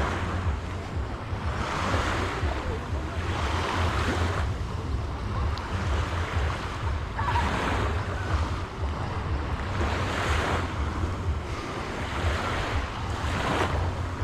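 Small sea waves washing onto a sandy shore, the surf swelling and falling back every few seconds, with wind buffeting the microphone in a steady low rumble.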